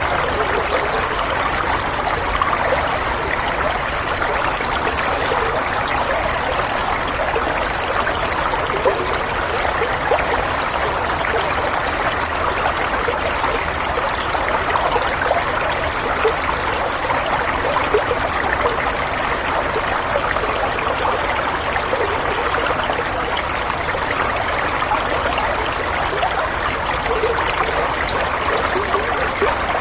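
Water running and trickling steadily, like a stream over stones, with small gurgles.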